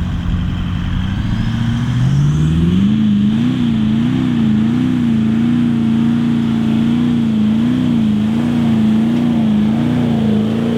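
A 4WD's engine revving up about two seconds in and then held at high revs, its pitch wavering up and down, as it powers through soft, untracked sand.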